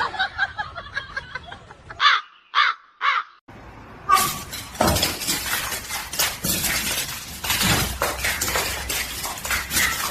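Three short animal calls, about half a second apart, then a long stretch of busy clattering and rustling full of quick clicks.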